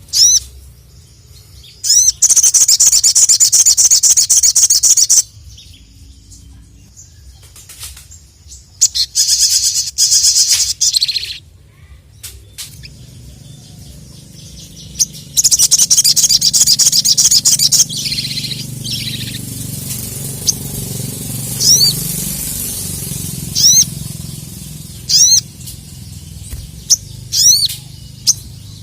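Ruby-cheeked sunbird (sogok ontong) singing: three long, loud bursts of rapid high trilling, each two to three seconds, then single sharp sweeping notes repeated every second or two.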